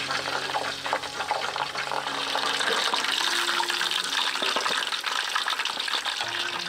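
Pork frying in hot oil: a dense, steady crackling sizzle that grows louder about two seconds in.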